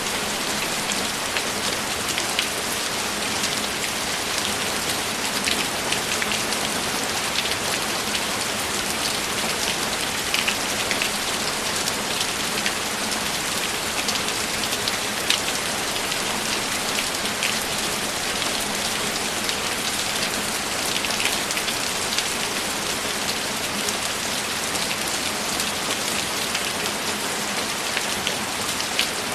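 Steady rainfall: an even hiss of rain, with many individual drops tapping close by throughout.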